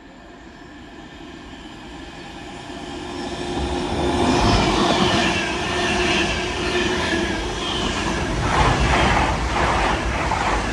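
An InterCity 225 train, Mark 4 coaches hauled by a Class 91 electric locomotive, approaching and passing at speed: a rush of wheel and rail noise that grows steadily and is loud from about four seconds in, with a steady hum and, near the end, a run of clicks from wheels over rail joints.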